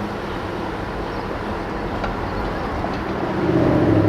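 Mercedes-AMG SLS 63's 6.2-litre V8 heard from the open-top cabin at low city speed: a steady low rumble with road noise. The engine note swells again about three seconds in.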